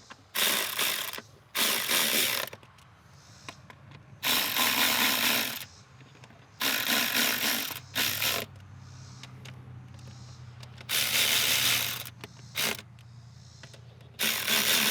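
Ratchet wrench clicking in about seven bursts as it runs down the throttle body bolts.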